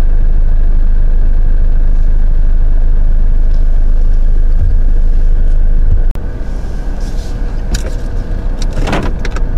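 Steady, loud low rumble, dropping in level and turning uneven about six seconds in.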